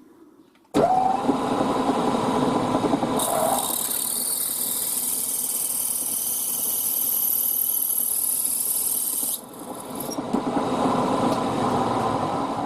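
Milling machine spindle starting suddenly about a second in and running steadily. From about three seconds in to about nine, a drill bit cuts into a brass bracket, adding a loud high hiss. The spindle keeps running after the cutting stops.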